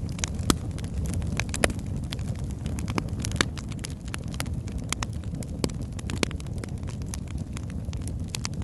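Wood logs burning in a fireplace, crackling with irregular sharp pops over a steady low rumble of the flames.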